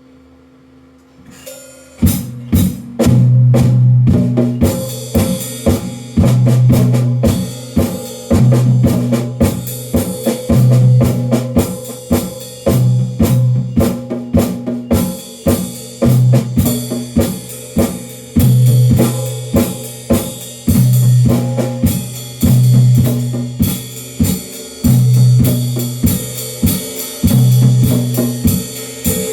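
Drum kit being played: after a brief quiet moment, a steady groove of kick, snare and tom strikes starts about two seconds in, with cymbals coming in a few seconds later and carrying on.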